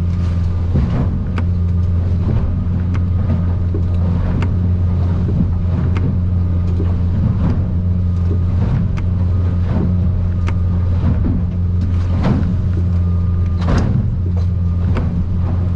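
Boat engine running steadily under way, a constant low drone, as the aluminium Stabicraft 2050 Supercab hull pounds through rough water with frequent irregular knocks and slaps from hard landings on the waves.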